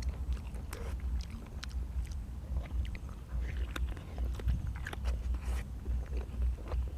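A person chewing and biting food close to the microphone, with irregular wet mouth clicks and smacks.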